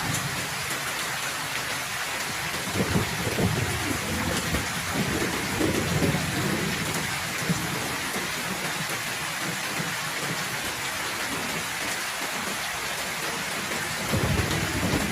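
Heavy rain falling steadily on a house, with low rumbles of thunder a few seconds in and again near the end.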